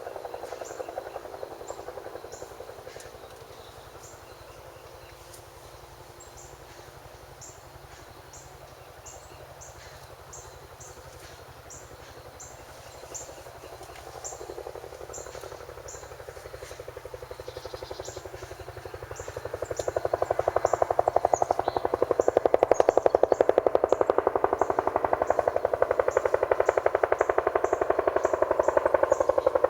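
Helicopter flying over, its rotor chop building to loud about two-thirds of the way through and holding there, with insects chirping steadily high up.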